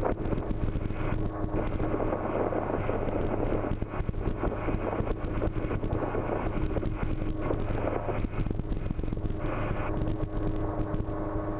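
Schweizer 300C helicopter in cruise flight: the steady drone of its four-cylinder piston engine and rotor system, heard from inside the small cabin.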